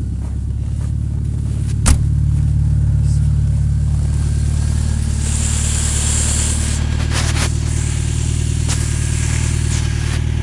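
Subaru Impreza flat-four boxer engine idling steadily through an open exhaust, still cold after a −20 °C start. It gives a deep, even rumble. There is one sharp crack about two seconds in and a brief hiss about five seconds in.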